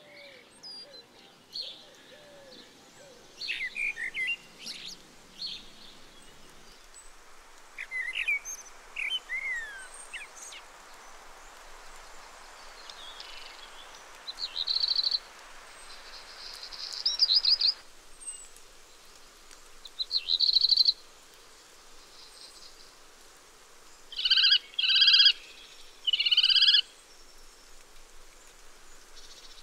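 Birds calling. Assorted chirps and whistled glides in the first ten seconds are followed by rapid series of high, shrill calls in bursts of about a second. The last three bursts come close together near the end and are the loudest: kestrel-type calls from common kestrels.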